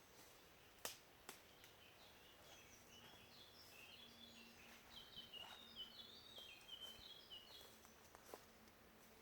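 Faint bird song: a run of quick, high chirping notes starting about two and a half seconds in and going on for several seconds. A few sharp clicks come near the start and near the end, over a faint steady low hum.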